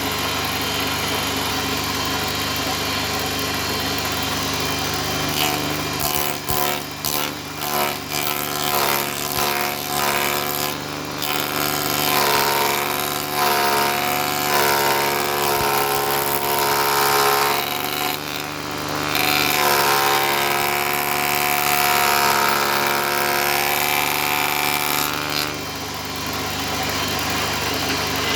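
An electric power tool running steadily. From about six seconds in it works wood: knocks at first, then a wavering, higher-pitched whine under load. The load eases off at about 25 seconds and the motor carries on running.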